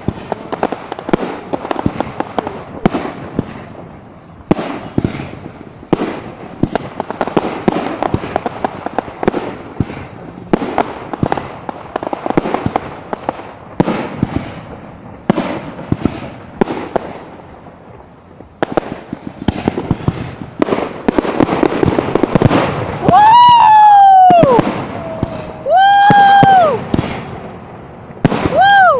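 Fireworks going off in rapid succession: a dense run of sharp bangs and crackles, thinning briefly around four seconds in and again near eighteen seconds. Near the end, three loud, high, whooping cries rise and fall over the bangs.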